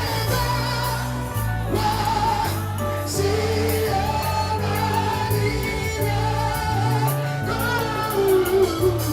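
Gospel praise music: a choir of voices singing over a steady bass line.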